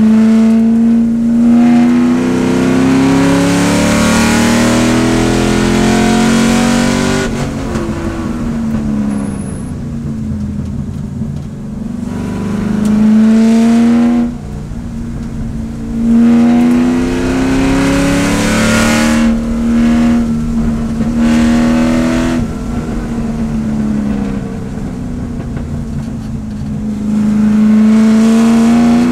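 C5 Corvette race car's V8 engine heard from inside the cockpit, revving up and down through a run of corners: the pitch climbs under throttle and falls away each time the driver lifts off, several times over.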